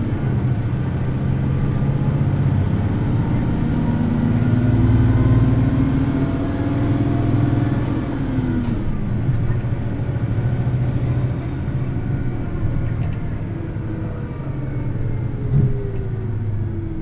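Hino Blue Ribbon City Hybrid bus under way, its engine held at high revs: the note climbs for several seconds, drops sharply about eight seconds in, then climbs again and sags near the end. A faint high whine rises and falls above it, and there is a single knock near the end.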